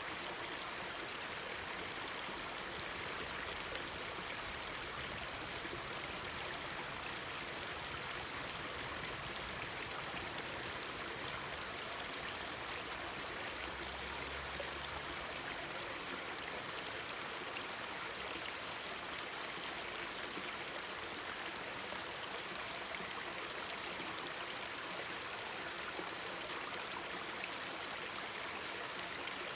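Mountain stream babbling and rushing steadily over rocks, with a single sharp snap about four seconds in.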